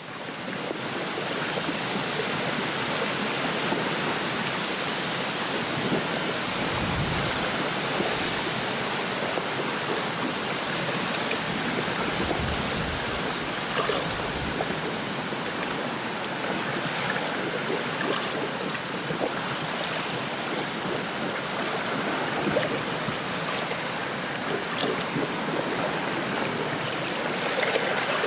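Wind rustling through a lakeside reed bed, with small waves lapping at the shore. It is a steady rush, with a low rumble of stronger gusts about seven seconds in and again around twelve to fourteen seconds.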